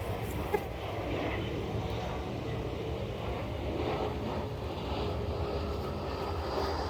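Disturbed honeybees buzzing around an open hive: a steady hum with faint wavering pitches. A single sharp knock about half a second in.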